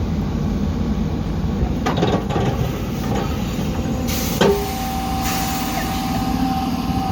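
A heavy diesel machine's engine running steadily, with a few metallic knocks about two seconds in. A sharp loud clank comes about four and a half seconds in, followed by a steady high whine.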